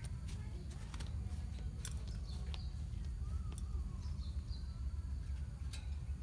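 A colony of lovebirds giving scattered sharp chirps and short squeaky calls over a steady low hum.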